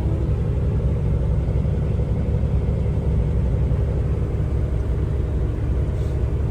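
Semi truck on the road: steady low rumble of its diesel engine and road noise.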